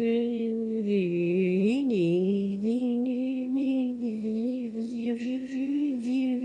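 Music: a chant-like sung tone holding one low note with a few small dips and bends in pitch.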